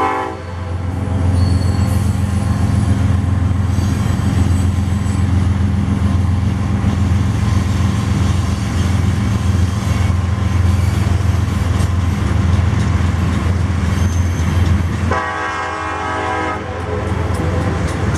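Freight train of tank cars rolling past with a steady low rumble and hum. The diesel locomotive's horn cuts off just after the start, and a second horn blast of about a second and a half sounds near the end.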